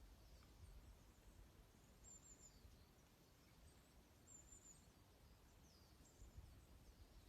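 Faint high chirping of small birds: a short trill about two seconds in and another a little after four seconds, among thin falling calls, over a low rumble.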